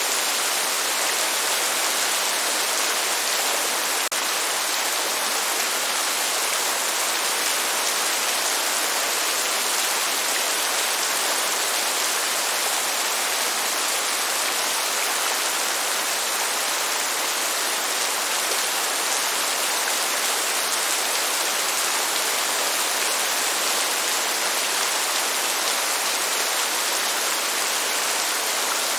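Steady rain, an even hiss with no let-up and no thunder.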